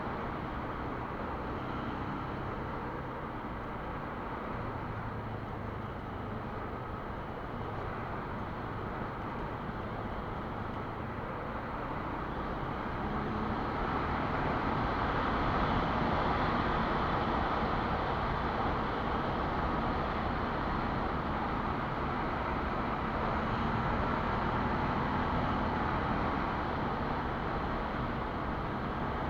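Quad bike engine running while under way, with a steady rush of noise over it. It grows louder about halfway through.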